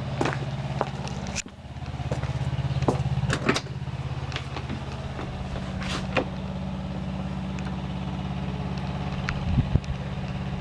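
Steady low motor hum with a fine regular pulse, like an idling engine, with scattered sharp clicks and knocks.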